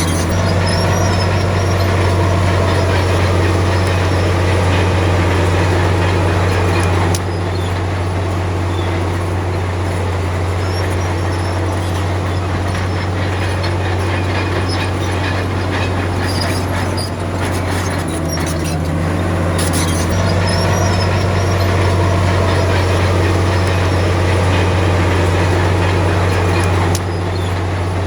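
Bulldozer's diesel engine running steadily with a deep, continuous drone. The sound shifts abruptly about seven seconds in and again near the end, with a few clicks and crackles.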